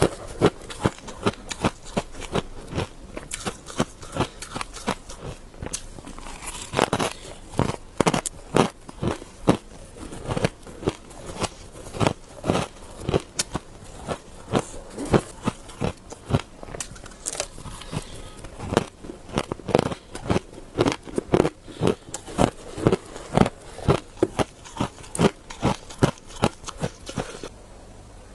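Close-up crunching of powdery shaved ice being bitten and chewed: a rapid, uneven run of crisp crunches, two or three a second, easing off just before the end.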